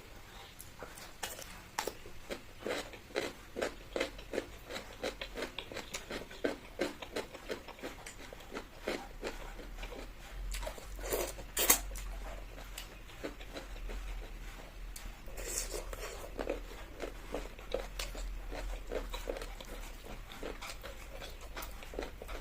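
Close-up eating sounds: a person chewing and crunching food in a steady rhythm of about two bites or chews a second, with one sharper crunch about twelve seconds in.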